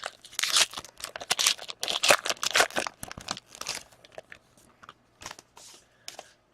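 Plastic wrapper of a trading card pack crinkling and tearing as it is opened and the cards are handled: dense rustling for about three seconds, then sparser short crinkles and scrapes.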